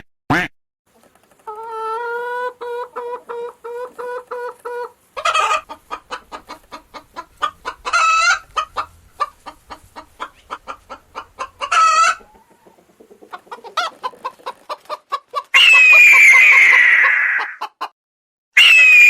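Chickens clucking in quick runs of short notes, with louder cackling calls breaking in every few seconds. Near the end comes a long, loud call that falls slightly in pitch, and another begins just as the stretch ends.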